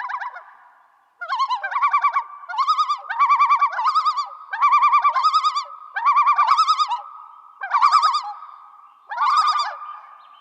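Bird calling: a series of about eight short calls, each a fast, wavering trill, coming roughly once every second or so.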